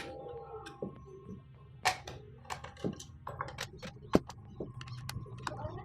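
Irregular sharp clicks and knocks of hard objects being handled, the loudest about four seconds in, over a faint steady hum.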